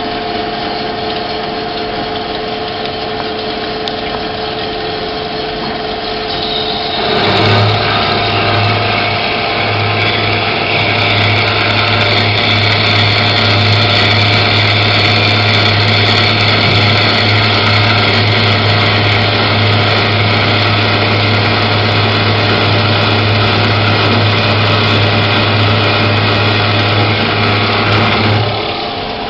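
PEGAS PROFI 400 metal-cutting band saw running an automatic cycle. Its machinery hums steadily at first. About seven seconds in, a much louder saw sound with a low drone and hiss comes on and runs for roughly twenty seconds, then stops shortly before the end.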